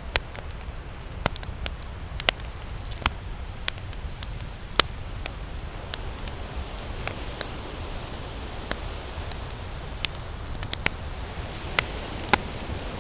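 Wood campfire crackling, with irregular sharp snaps and a few louder pops over a steady low rumble.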